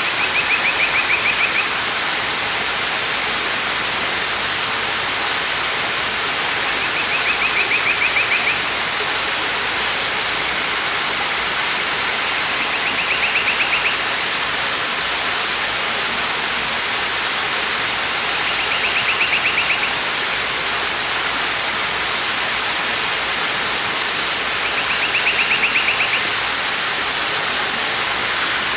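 Waterfall rushing steadily. Over it, a high, fast trill about a second and a half long repeats five times, roughly every six seconds.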